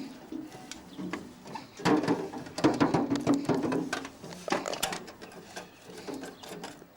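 Mechanical clicking and rattling from a petrol lawn mower being worked on by hand, loudest and busiest from about two seconds in to about five seconds.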